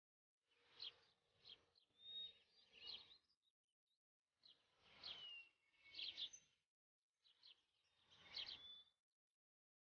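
Faint birds chirping and calling over light outdoor background noise. The sound comes in three short stretches, each cut off by dead silence.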